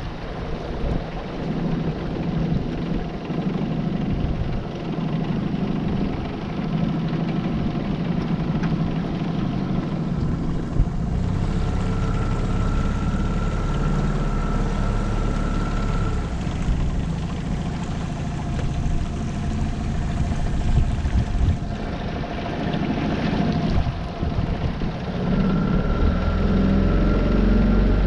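Tohatsu 9.8 hp four-stroke outboard motor running steadily under way, pushing a small V-bottom boat, with water rushing along the hull and wind on the microphone.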